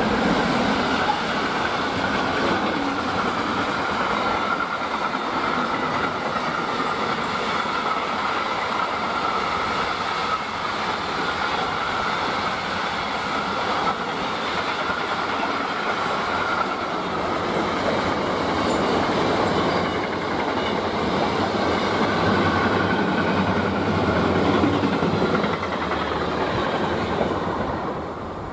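Electric-hauled freight train of covered coil wagons and flat wagons rolling past at speed: a steady loud rolling noise of steel wheels on rail, with a steady high whine on top. The noise drops away near the end as the last wagon goes by.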